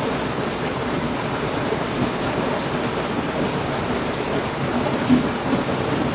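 Heavy rain falling steadily as a dense, even wash of noise, with one slightly louder spatter about five seconds in.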